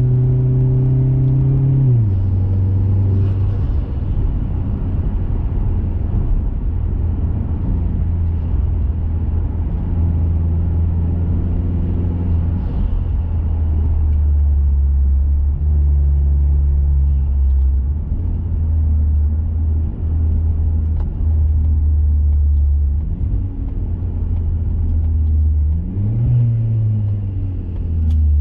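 A 2021 Mazda 3 Turbo's turbocharged four-cylinder engine, breathing through an aftermarket high-flow intake and 80 mm cat-back exhaust, drones at a steady cruise over tyre and road noise. Its note steps down about two seconds in, then briefly rises and falls again near the end.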